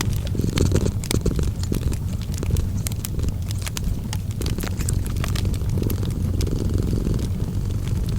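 A cat purring, a steady low rumble that swells and eases every second or so, with a wood fire crackling over it in many small, sharp pops.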